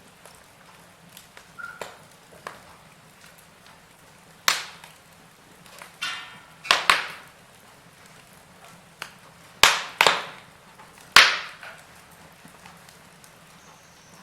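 Burning wood crackling: scattered small ticks and about six sharp, loud pops from about four seconds in, each fading quickly, over a faint steady hiss.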